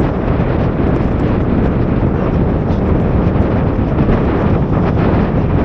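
Strong gale-force wind buffeting the microphone: a loud, steady rumble with no break.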